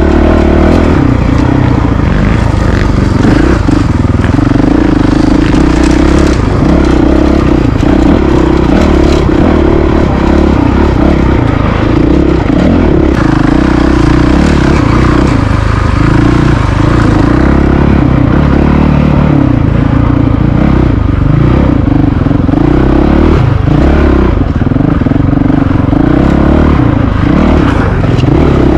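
Honda CRF450RL's single-cylinder four-stroke engine running continuously as the dirt bike is ridden, its note rising and falling a little with the throttle.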